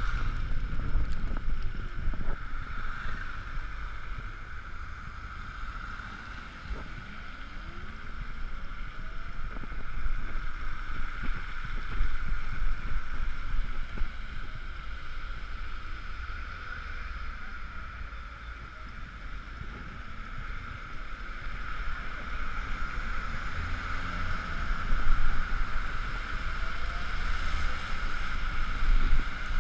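Wind rumble buffeting a GoPro's microphone while riding an Ekoway ML5000 electric vehicle, rising and falling with gusts. A steady high hum sits over it throughout.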